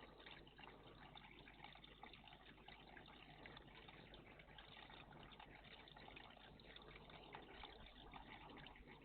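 Faint, steady trickling of water at a bird bath, with a low steady hum beneath it.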